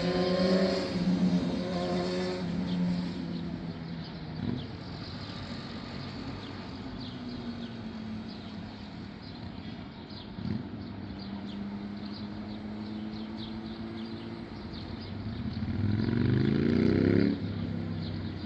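Airliner engines running with a steady hum and two short knocks. Near the end a whine rises in pitch and grows louder, then breaks off abruptly.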